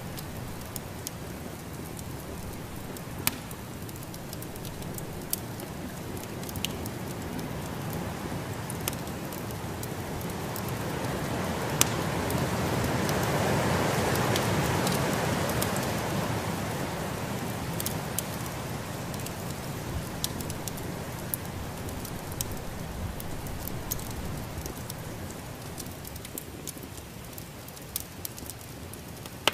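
Wood fire crackling, with sharp pops scattered throughout, over a steady rush of storm wind that swells through the middle and dies back down.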